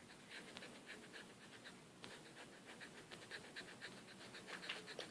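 Faint pencil strokes scratching on paper: quick, short, repeated strokes, a few every second, as a drawing is sketched and touched up.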